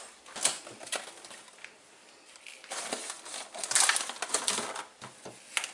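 Food items and containers being set back onto a fridge shelf: light knocks and clicks, with a longer stretch of rustling and handling about halfway through.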